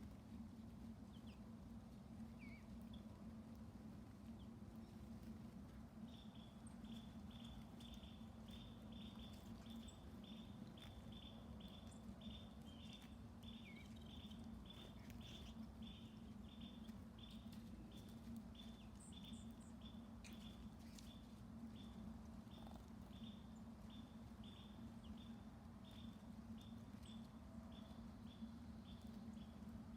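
A bird repeating one short, high note over and over, about two a second, starting a few seconds in and running on almost to the end. It is faint, over a steady low hum.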